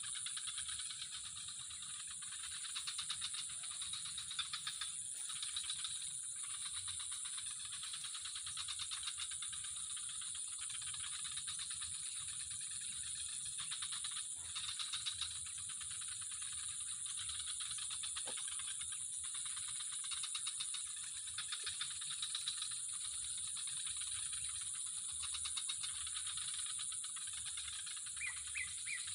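Steady outdoor insect chorus, a dense high pulsing trill, with a short run of rapid chirps near the end.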